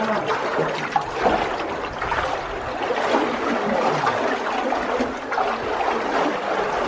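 Water splashing and trickling steadily around kayaks.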